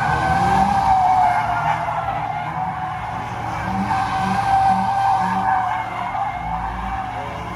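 Car tyres squealing in one long, slightly wavering screech as a car drifts, with its engine running underneath.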